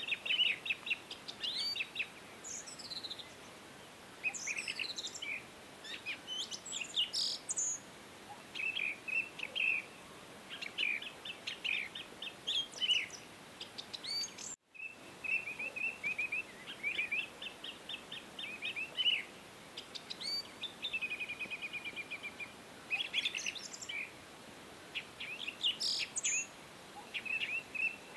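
Small birds chirping and trilling: many quick repeated calls and short rising and falling whistles. The sound cuts out briefly about halfway through.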